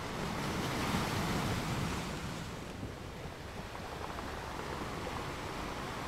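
Sea surf: a steady wash of waves with one swelling and easing back in the first couple of seconds.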